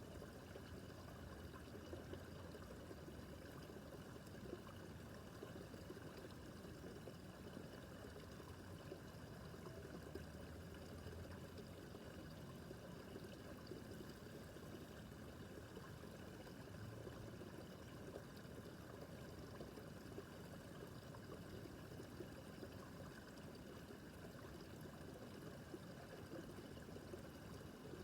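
Small babbling brook, water trickling and burbling steadily over stones; faint and unbroken.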